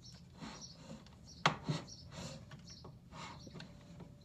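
Handling knocks from metal parts on a Stannah 600 stairlift carriage: a sharp knock about a second and a half in, a lighter one just after, and faint scrapes and taps around them.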